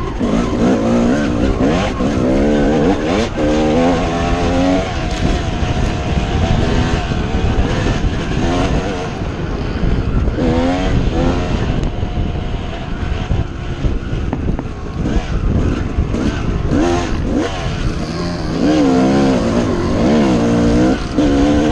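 Dirt bike engine revving up and down again and again, its pitch rising and falling in quick swells over a constant low rumble.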